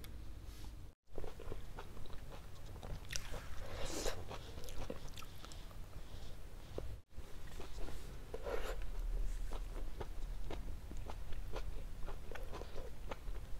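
Close-up eating sounds of a person biting and chewing Indian sweets such as barfi: many small mouth clicks and chewing noises. The sound cuts out briefly twice, about a second in and about seven seconds in.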